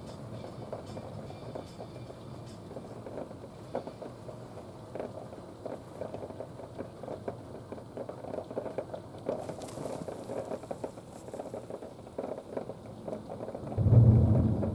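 Heavy rain pattering steadily in a thunderstorm, a dense crackle of drops. Near the end a loud, low rumble sets in suddenly.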